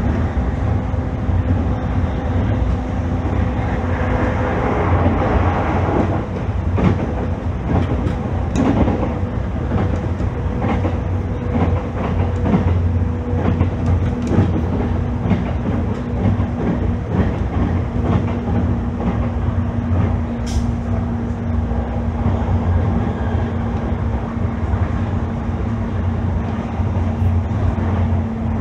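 JR East E531-series electric multiple-unit train running at a steady speed: a continuous rumble of wheels on rail with a steady hum and scattered clicks from the track.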